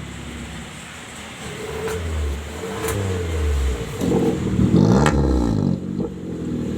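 Maruti Suzuki Baleno's engine revved through an aftermarket HKS exhaust: one rev that rises and falls back between about one and a half and three and a half seconds in, then a second, sharper rev peaking near five seconds before dropping back to idle.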